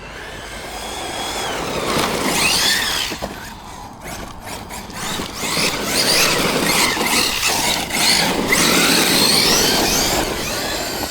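Electric RC monster truck being driven hard: a high-pitched motor and drivetrain whine that rises and falls again and again with the throttle, over a rough noise of tyres on loose dirt, getting louder about two seconds in.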